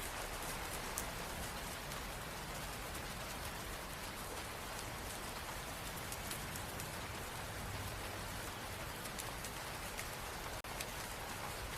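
Steady rain, an even hiss with scattered sharp drop ticks, dropping out for an instant about ten and a half seconds in.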